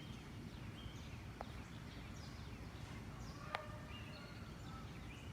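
Faint outdoor ambience: a low steady rumble with scattered short bird chirps, and two faint clicks, one about a second and a half in and a sharper one a little past three and a half seconds.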